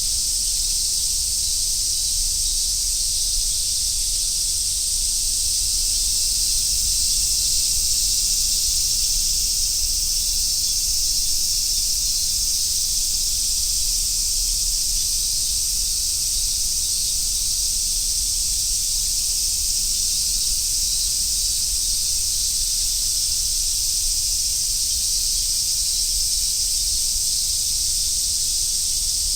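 Chorus of cicadas, such as large brown cicadas and robust cicadas, singing in a steady, dense, high-pitched hiss that never breaks.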